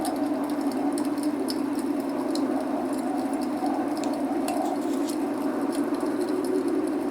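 Log fire crackling, with many small sharp pops scattered throughout, over a steady rushing noise of rain.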